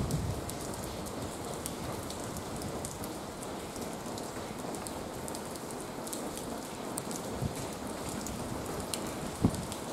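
Steady rain falling, with scattered drops ticking close by and a single knock near the end.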